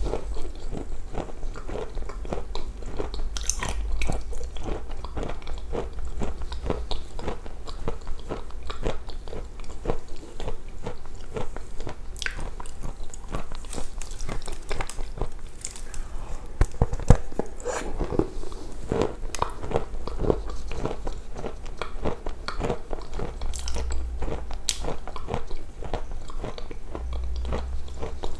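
A person eating close to a lapel microphone: steady chewing and biting, full of small, irregular mouth clicks, as pieces of food dipped in a creamy dip are bitten and chewed.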